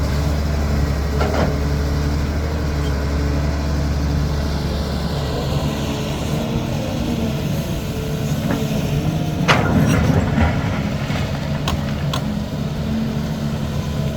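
CAT 320D hydraulic excavator's diesel engine running steadily under working load, its note shifting as it digs. Several sharp clanks of the bucket and rock cut through it, the loudest about two-thirds of the way in.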